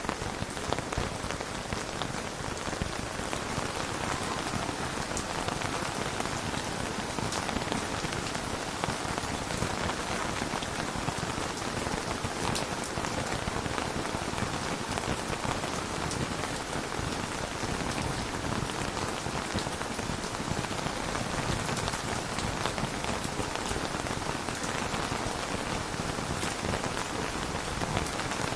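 Steady rain falling on a surface, an even hiss of many fine drop ticks.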